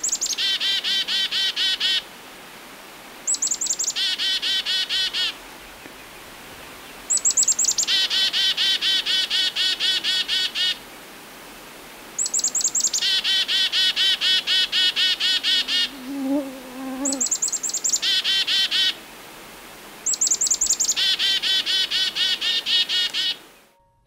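A songbird singing over and over, about six songs with short pauses between. Each song opens with a few high, falling notes and runs into a fast, even trill.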